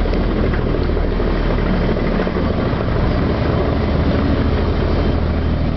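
Boeing Vertol 107 tandem-rotor helicopter on approach, its two rotors beating in a fast, steady low pulse over the noise of its twin turboshaft engines.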